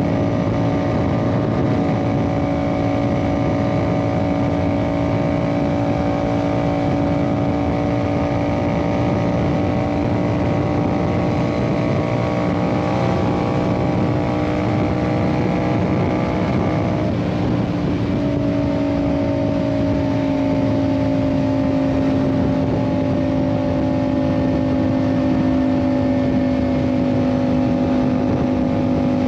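Yamaha MT-07's 689 cc parallel-twin engine, through an Ixil aftermarket exhaust, pulling at a steady cruising speed with wind and road noise. About 17 seconds in, the engine note breaks briefly for a gear change and then carries on a little lower, slowly easing down.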